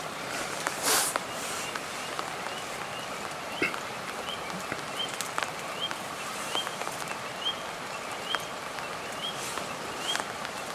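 A small animal's short rising chirp, repeated about twice a second from a few seconds in, over a steady hiss with scattered clicks. A brief loud rush about a second in.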